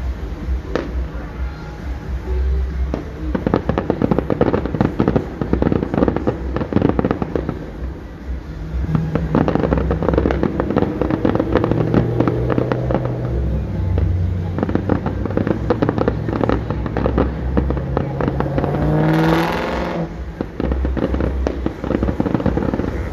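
Distant fireworks display: a dense, continuous run of bangs and crackling pops. Through the middle a low hum joins in and shifts pitch in steps, then rises into a brief whine about nineteen seconds in.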